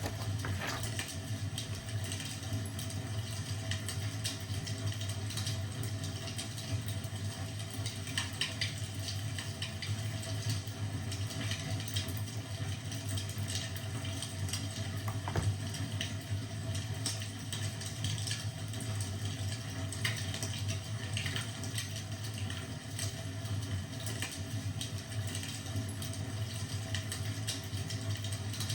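Wood fire crackling, irregular small pops and snaps scattered over a steady low rumble.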